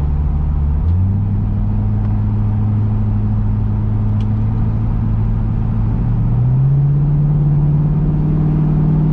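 Chevrolet Camaro V8 engine running under steady throttle, heard from inside the cabin. Its pitch steps up about a second in and again at about six seconds, then holds.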